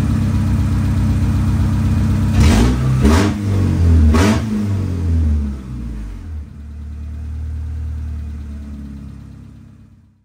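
Four-cylinder engine of a 1992 Honda Accord running, revved three times in quick blips a few seconds in, then running steadily before fading out.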